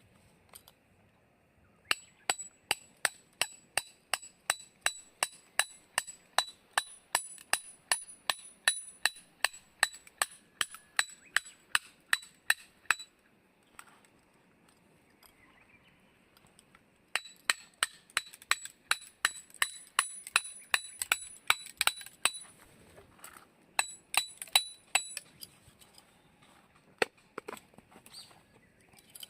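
Rapid hammer blows on metal, each with a short high ringing, about three a second, in two long runs with a pause of a few seconds between them.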